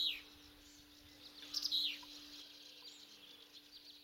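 Wild songbirds singing: a song phrase ends right at the start and a second, falling phrase comes about a second and a half in, with fainter chirps between and after.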